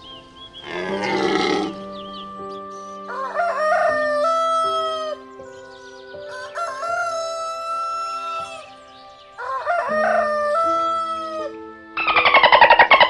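Rooster crowing three times, each crow rising and then held, over soft sustained background music. A short rough call comes about a second in, and a loud raspy sound starts near the end.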